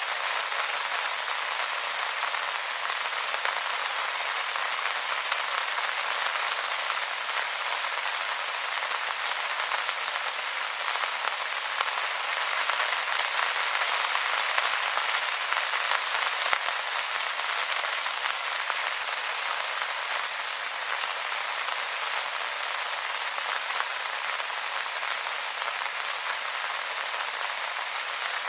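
Steady rain falling on wet leaves, an even hiss of many small drops with none standing out, swelling slightly about halfway.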